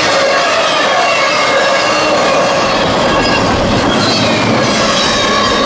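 CSX double-stack intermodal freight train's well cars passing close at speed: a steady loud rumble and clatter of wheels on rail, with faint high squeal from the wheels.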